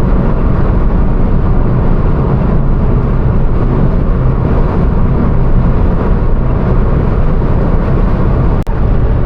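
Steady road and engine noise heard from inside a car driving at speed on a motorway.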